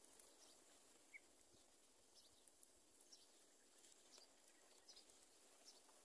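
Near silence, with faint, short, high-pitched bird chirps scattered through it.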